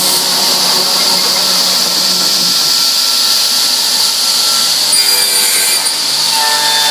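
Marinus V&G400 end-matching machine running, its high-speed cutter motors spinning and profiling the ends of wooden flooring boards, a steady loud hiss with a faint whine. The tone mix shifts about five seconds in.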